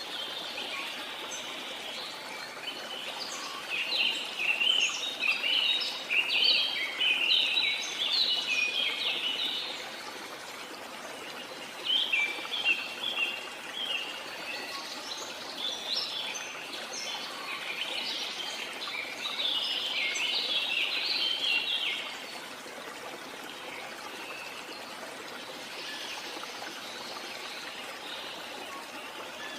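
Birds singing in rapid bouts of short chirps over the steady rush of a waterfall. There are two long bouts of song, one from a few seconds in and another from about twelve seconds in, which fade out later on, leaving the water running alone.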